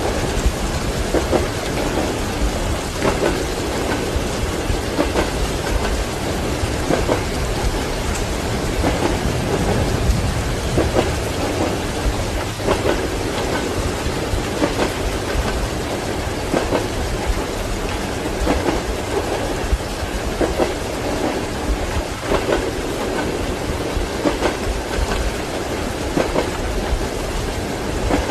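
Steady heavy rain mixed with the low rumble and knocking of train wheels running over the rails, with thunder rumbling in the background.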